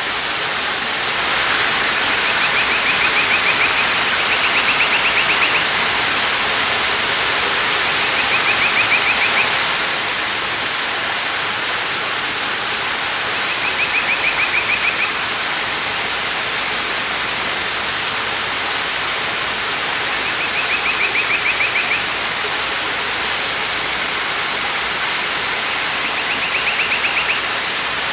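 Waterfall's steady rush of falling water, with a short rapid bird trill rising above it six times, each about a second long and several seconds apart.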